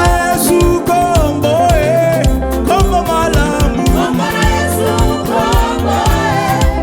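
Gospel praise and worship music: a sung melody with wavering runs over a band with deep bass and a steady drum beat.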